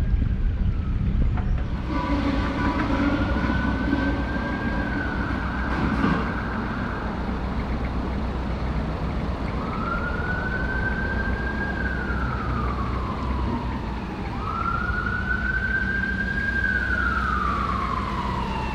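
Emergency vehicle siren sounding a slow wail, its pitch rising, holding and falling about three times, over the steady low running of the narrowboat's diesel engine.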